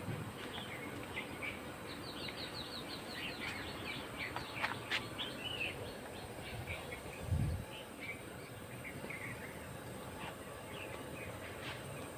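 Small birds chirping and twittering over a faint hiss, with a quick run of falling notes about two to four seconds in. A brief low thud comes about seven seconds in.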